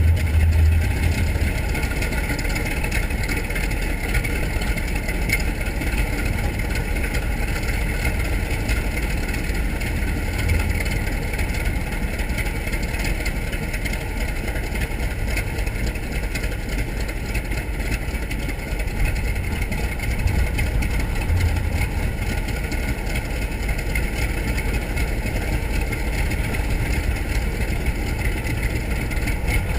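TBM Avenger's Wright R-2600 fourteen-cylinder twin-row radial engine running steadily at a low, even power setting.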